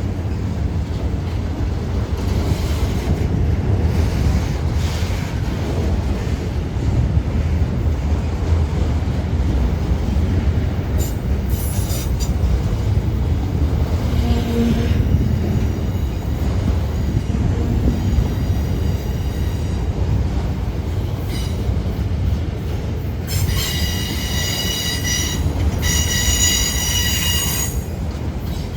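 CSX freight train rolling past, a steady low rumble of wheels and cars on the rails. Brief wheel squeals come near the middle, and a loud high squeal with several pitches rings in two stretches near the end.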